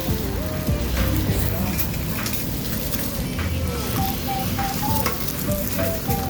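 A steady frying sizzle with occasional clicks, under light background music playing a simple stepping melody.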